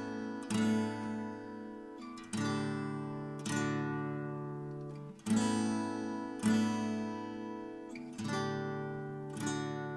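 Instrumental music: acoustic guitar strumming slow chords, about one a second, each left to ring and fade.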